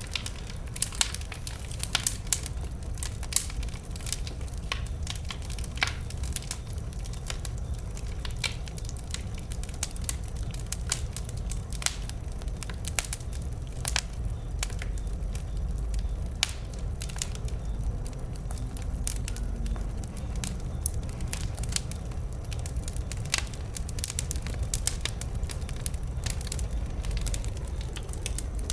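Wood bonfire burning: irregular sharp crackles and pops from the burning wood over a steady low rumble.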